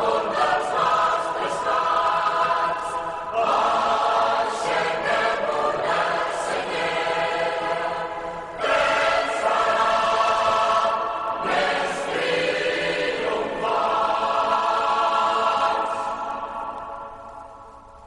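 Choral music: voices holding long sustained chords that change every few seconds, fading out near the end.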